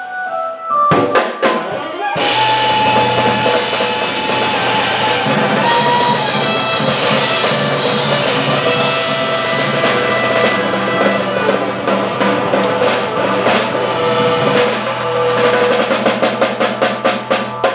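Jazz organ trio playing live: drum kit rolling with cymbals over a long held organ chord with a steady low bass note, the drums breaking into a run of strokes near the end, like the closing build of a tune.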